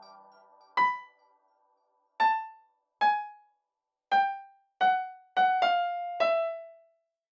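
Piano notes played one at a time, about eight of them, slow and unevenly spaced, each dying away quickly and stepping down in pitch, after the tail of a fading chord. The last note rings a little longer.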